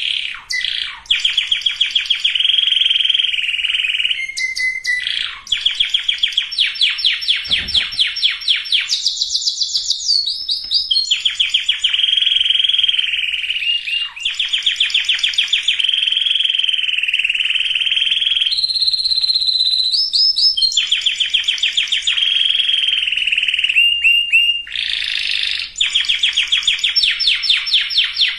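Domestic canary singing a long unbroken song of rapid trills and rolls, switching to a new pitch and pattern every second or few, with fast repeated notes throughout.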